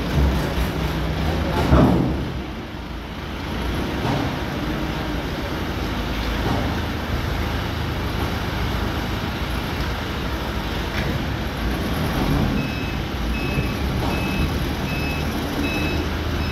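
Tractor engine running steadily, with a loud swell about two seconds in. Near the end a repeating electronic beep joins it, about one and a half beeps a second.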